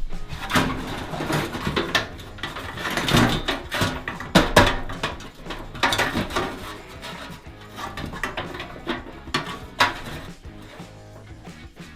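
A series of irregular knocks and clicks, like hard objects being handled, over background music.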